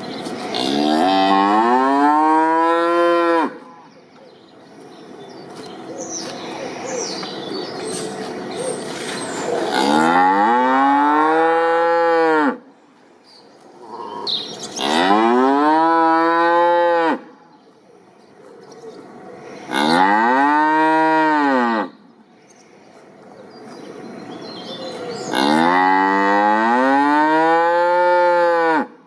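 Cow mooing: five long moos a few seconds apart, each rising and then falling in pitch.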